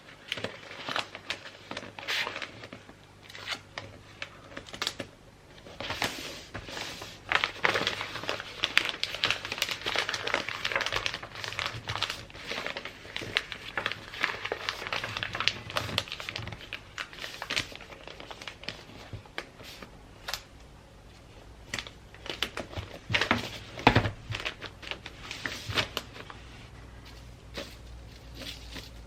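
Gift-wrapping paper crinkling and rustling as it is handled and folded, with many sharp clicks and crackles; the crinkling is densest from about six to thirteen seconds in.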